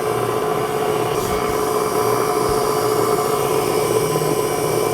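KitchenAid stand mixer running steadily, its motor giving an even hum with a steady whine as it mixes bread dough.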